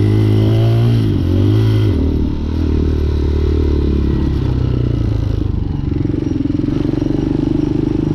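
Hawk 250 dual-sport motorcycle's single-cylinder four-stroke engine running while being ridden. Its pitch dips and comes back up about a second in, then settles into a steady, lower note.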